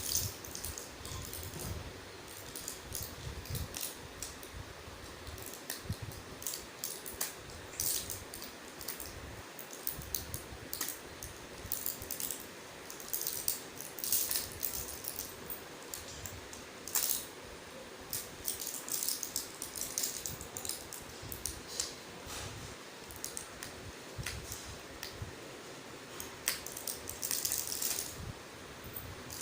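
Irregular small clicks and rattles of small hard objects being handled.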